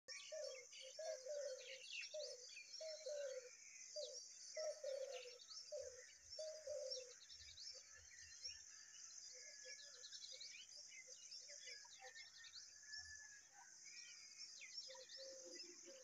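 Faint birds chirping and calling: quick high chirps throughout, a run of short lower calls in the first half, over a steady high hiss.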